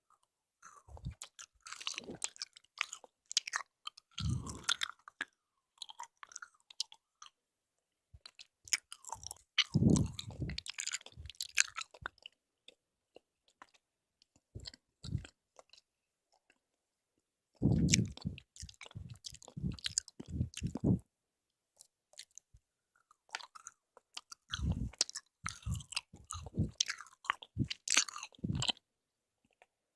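Close-miked chewing and biting of jelly candy, mouth sounds with sharp clicks, in several bursts a few seconds long with short silent pauses between them.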